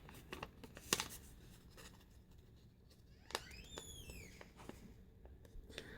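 Faint paper handling as a sheet of printer paper is folded and creased: a few light taps and crinkles, with a brief high squeak falling in pitch near the middle.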